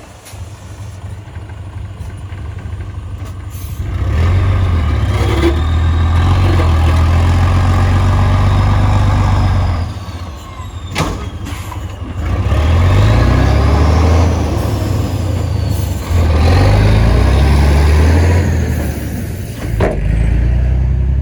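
Heavy diesel earthmoving machine working under load: the engine rises and holds in three long surges separated by brief drops toward idle, with a few sharp metallic clanks.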